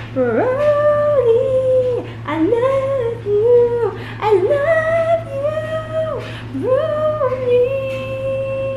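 Music: a woman singing long, wordless held notes that slide up and down between pitches, over a steady low drone.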